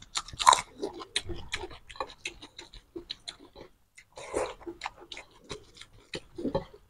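Two people chewing mouthfuls of mutton curry and rice, eaten by hand: an irregular run of wet smacks and clicks from lips and mouths, with the strongest about half a second in and again near the end.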